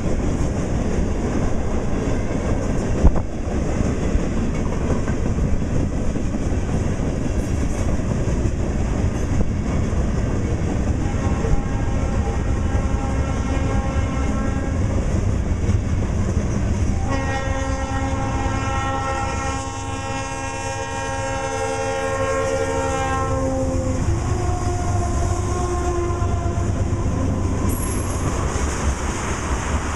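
Approaching freight train: a steady rumble of diesel locomotives and rolling wheels, with the locomotive's multi-note air horn sounding faintly about a third of the way in, then one long loud blast of several seconds and a short final note. Near the end the tank cars roll past with wheel clatter.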